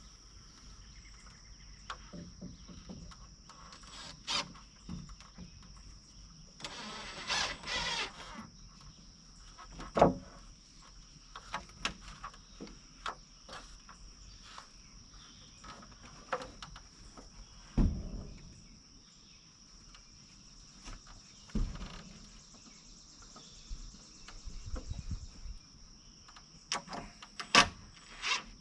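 Scattered knocks and clunks of rafter lumber being handled and fitted, with a short rasping burst about seven seconds in. Behind it is a steady high insect chirring.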